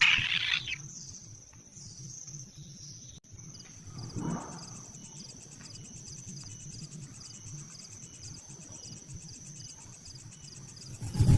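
Insects chirping steadily with a fast, even pulse against quiet outdoor background. A loud harsh sound fades out in the first second, and a brief soft rustle comes about four seconds in.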